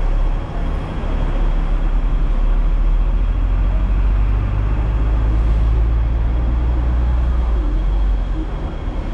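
Hong Kong double-decker electric tram running on its rails: a steady low rumble, with a low hum that grows stronger for a few seconds near the middle and then eases.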